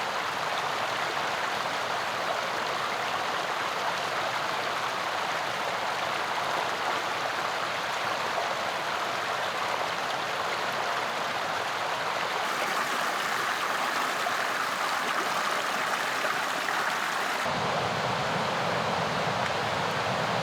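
Mountain river rushing, a steady noise of flowing water. Its tone shifts twice: hissier about twelve seconds in, deeper near the end.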